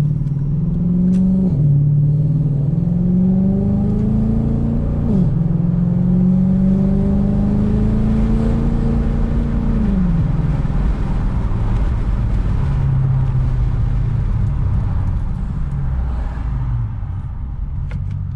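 2002 Infiniti Q45's 4.5-litre V8 accelerating through Nissan Titan JBA shorty headers and a custom exhaust, heard from inside the cabin with the rear windows cracked. The engine note climbs and drops at two upshifts, a little over a second in and about five seconds in, then climbs slowly again and falls away about ten seconds in, settling to a lower steady note. The exhaust is now free of leaks.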